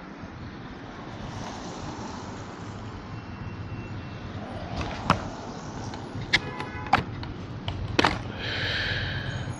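Electric scooter riding over rough, snowy city streets: a steady wash of wind and road noise, with sharp knocks and rattles from about five seconds in and a brief high tone near the end.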